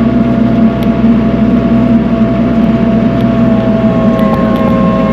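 Tractor engine running steadily at working speed while the tractor is driven, a continuous loud drone with a few faint rattles.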